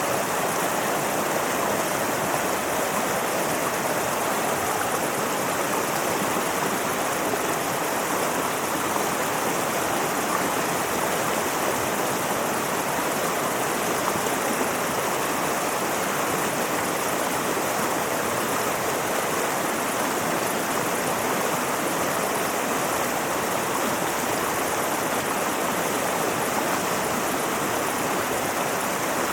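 Mountain river rushing steadily over rocks, an unbroken wash of flowing water.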